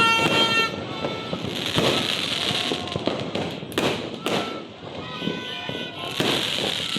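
Fireworks going off: dense crackling and popping, with louder single bangs about two seconds in and around four seconds in. Brief high-pitched tones sound at the start and again about five seconds in.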